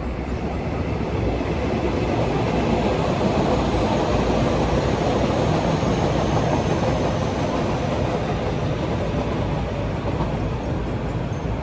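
A train passing: the rumble of its wheels on the rails swells over the first few seconds, holds, then eases slightly toward the end.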